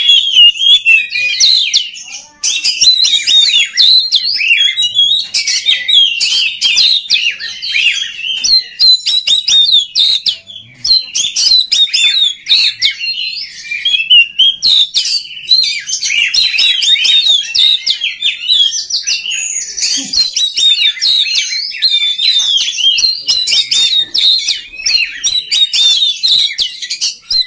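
Oriental magpie-robin (kacer) singing a fast, varied, almost unbroken stream of chirps, trills and whistles, pausing briefly about two seconds in.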